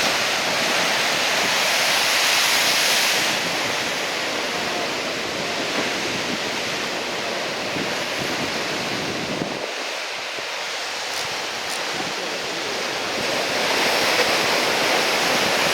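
Heavy surf from a typhoon swell breaking and washing in, a steady rush of waves that swells louder in the first few seconds and again near the end, with wind noise on the microphone.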